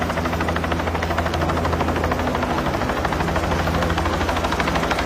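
Helicopter running close by, its rotor blades chopping in a steady, rapid beat over a low engine hum.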